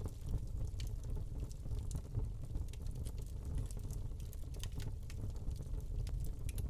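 Wood fire burning in a fireplace: irregular small crackles and pops from the burning log over a steady low rumble of the flames.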